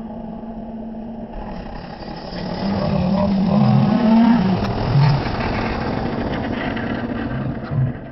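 John Deere tractor engine running and revving, its pitch wavering up and down; it gets louder about two and a half seconds in and eases off slightly after about five seconds.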